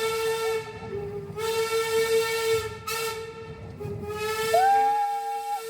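Steam locomotive whistle blowing repeated long blasts, each about one and a half to two seconds, with a hiss of steam over the tone.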